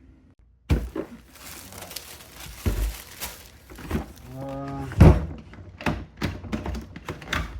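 Hard-object handling: a series of thunks and clicks, the loudest knock about five seconds in, from a steering wheel puller kit and its case being handled.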